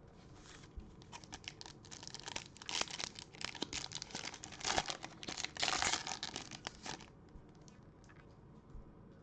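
Foil wrapper of a baseball card pack being torn open and crinkled: a dense crackling rustle that builds over a few seconds and stops about seven seconds in.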